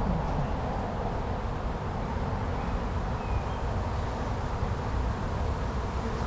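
Honey bees buzzing steadily around an opened hive, with wind rumbling on the microphone.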